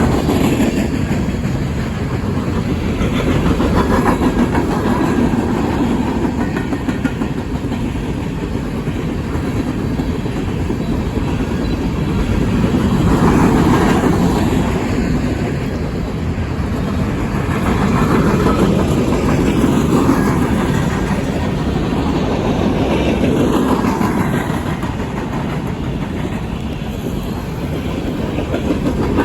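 Cars of a coal train rolling past, a steady rumble of steel wheels on rail with a clickety-clack over the joints, swelling and easing as the cars go by.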